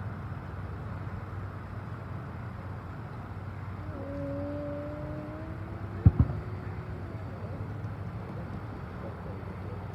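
Distant fireworks over a steady low outdoor rumble: a sharp bang about six seconds in, with a smaller one right after. A steady held tone sounds for about three seconds around the middle.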